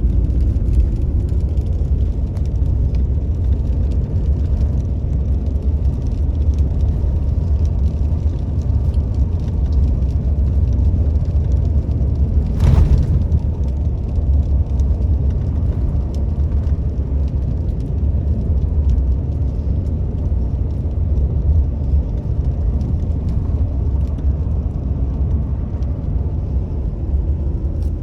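Steady low rumble of a car driving, road and engine noise heard from inside, with a single brief sharp knock about halfway through.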